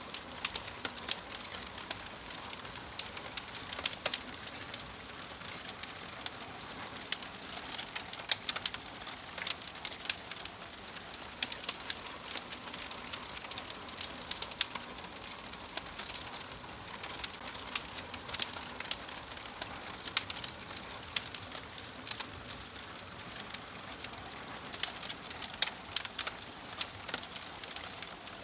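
Wood fire crackling in a fireplace: irregular sharp pops and snaps, several a second, over a steady soft hiss.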